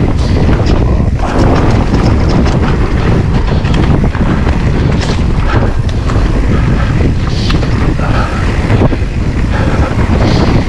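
Wind buffeting a GoPro's microphone on a moving electric mountain bike, with steady tyre noise and scattered rattles and knocks from the bike over rough ground.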